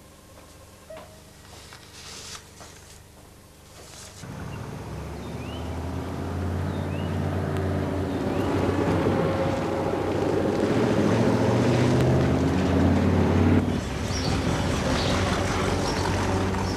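Engine of a vintage car driving along, cutting in suddenly about four seconds in and growing louder as it comes closer, with a sudden small drop near the end.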